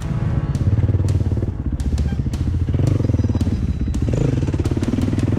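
A Yamaha WR450F dirt bike's single-cylinder four-stroke engine running under throttle, its pitch rising and falling. Scattered sharp clicks and knocks run through it.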